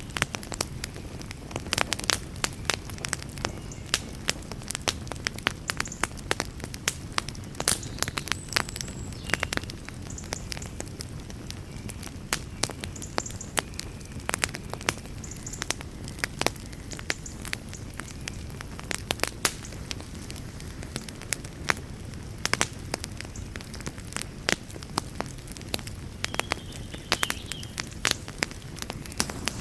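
Wood campfire crackling: irregular sharp pops and snaps, some louder than others, over a low steady rush.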